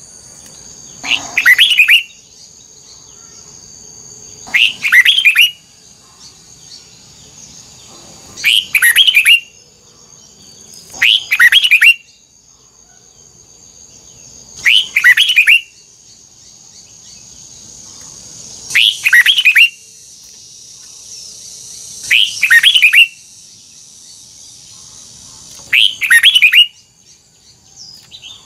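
Red-whiskered bulbul singing: eight short, loud, whistled phrases, each about a second long, spaced every three to four seconds.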